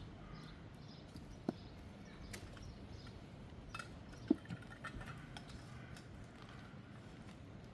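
Light, scattered taps and clinks of cooking utensils and cookware over a faint steady outdoor background, with one sharper knock that rings briefly about four seconds in.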